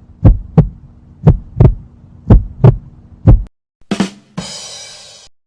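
Heartbeat sound effect: four slow double thumps, lub-dub about once a second, over a low steady hum. Near the end it gives way to a brief hissing noise.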